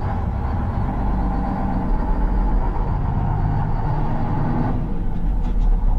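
Old Mack roll-off truck's diesel engine running steadily, with a higher steady hum over it that drops away about five seconds in.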